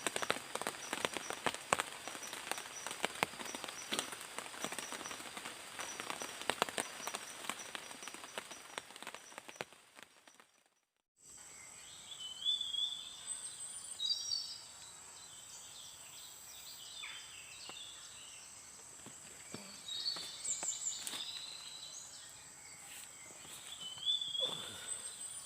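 Heavy rain falling, dense with sharp drop hits, over a steady high insect trill; it fades out about ten seconds in. After a short gap, forest birds call with short chirps and whistles over a steady high insect drone.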